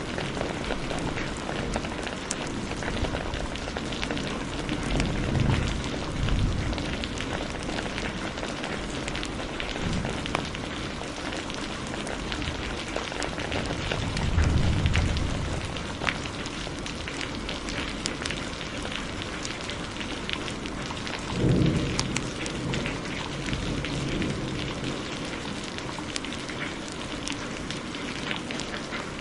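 Steady heavy rain with a log fire crackling and popping over it. Low rolls of thunder swell up about five seconds in, again around the middle, and once more about two-thirds through.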